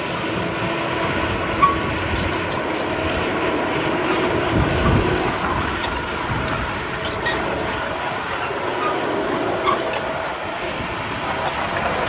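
Komatsu D31P crawler bulldozer at work: the diesel engine runs steadily under the metallic clanking and squeaking of its steel tracks, with a single sharp knock about one and a half seconds in.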